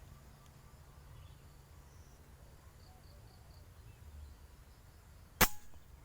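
A single sharp air-rifle shot about five and a half seconds in, over a low rumble of wind on the microphone.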